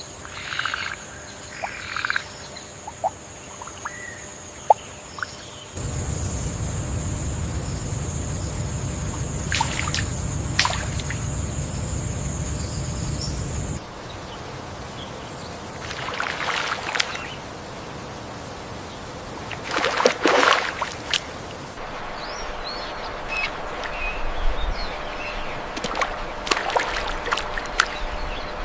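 Rainforest waterside ambience: a steady high insect drone, a stretch of rushing water, scattered short animal calls and a few sharp clicks. The mix changes abruptly a few times.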